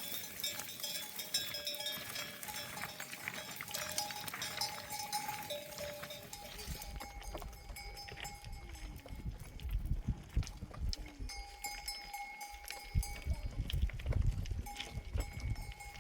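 Bells on a grazing flock of sheep and goats clanking and ringing, several tones overlapping, with scattered clicks early on. A low rumble comes in about halfway through.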